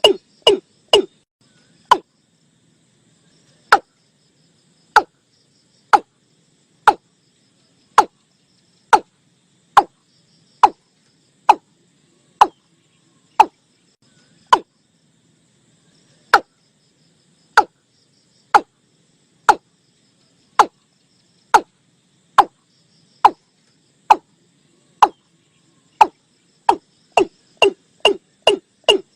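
Watercock calling: a repeated series of short, hollow notes. They come quickly at first and break off about two seconds in. They resume at about one a second and speed up again near the end. It is a lure recording used to call watercocks in for trapping.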